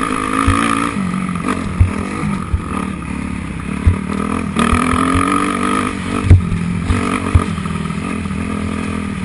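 Motocross dirt bike engine revving up and easing off several times over, with scattered low thumps.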